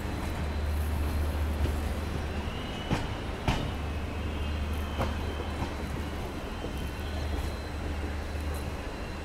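Express passenger train running, heard from inside a coach: a steady low rumble of wheels on the track, with sharp knocks about three seconds in, again half a second later, and near five seconds.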